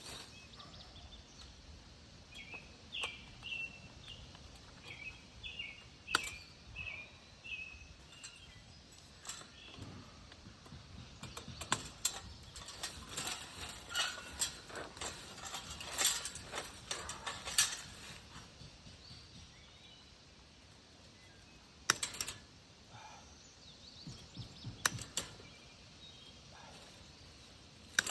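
Outdoor ambience with a bird giving a series of short chirps for the first several seconds, followed by a long run of sharp knocks and clicks, thickest midway and then a few single knocks near the end.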